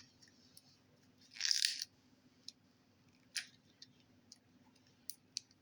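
Handling of plastic slime tubs: a brief rustle about a second and a half in, then a scatter of small sharp clicks.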